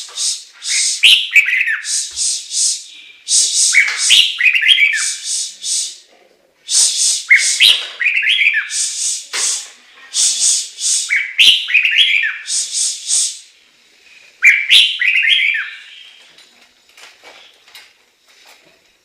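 Hwamei (Chinese hwamei laughingthrush) singing: loud, repeated phrases of slurred, falling whistled notes mixed with rapid rasping notes, about five phrases a few seconds apart, going quieter near the end.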